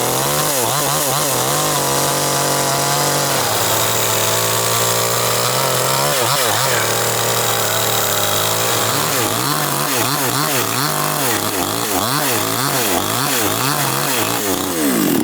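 Chainsaw running and cutting wood, its engine pitch repeatedly dipping and recovering under load, wavering faster in the second half, then cutting off at the very end.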